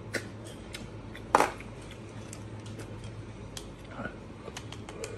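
Eating sounds from sucking spicy stir-fried spiral snails out of their shells: one loud slurp about a second and a half in, and scattered small lip smacks and clicks. A low steady hum runs underneath.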